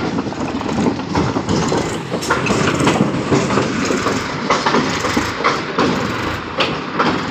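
Massey Ferguson 241 DI tractor running, with irregular metallic clanking and rattling over the engine noise.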